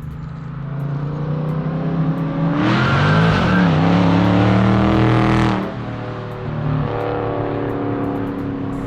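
6.4-litre 392 Hemi V8 with catless mid-pipes accelerating hard at full throttle. It builds over about the first three seconds, pitch climbing with a brief dip partway, then lifts off suddenly about five and a half seconds in and settles to a lower, steady exhaust drone.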